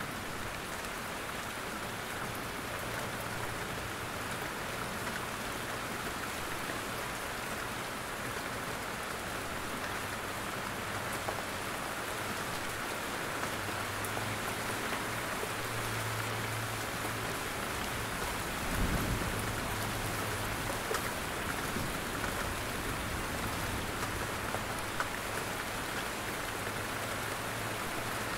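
Steady rain falling in a forest, drops pattering on leaves and the ground. A brief low rumble comes about two-thirds of the way through.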